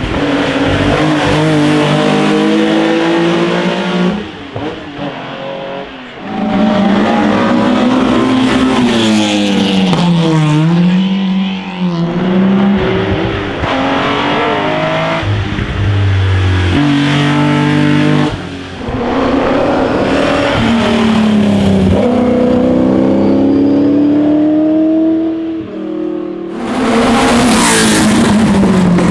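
Classic racing and sports car engines revving hard under acceleration, one car after another. The pitch climbs through each gear and drops at the shifts, with sudden changes every few seconds as a different car takes over.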